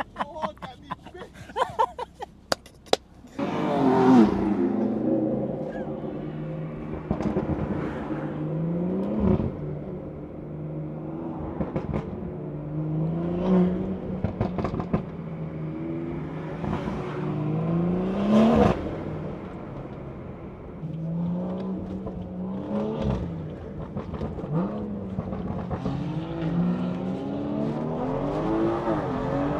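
Tuned BMW 340i's B58 turbocharged straight-six accelerating hard through several gears, its pitch climbing then dropping back at each upshift. A burst of sharp pops comes before it, in the first three seconds.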